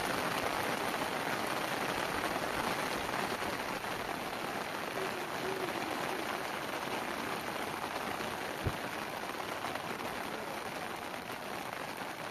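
Steady rain falling, an even hiss that eases slightly toward the end, with one brief thump about two-thirds of the way through.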